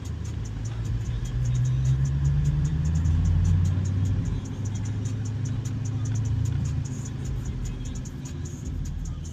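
2015 Dodge Challenger Hellcat's supercharged 6.2-litre HEMI V8 running while driving, its note rising slightly and then dropping back about four seconds in.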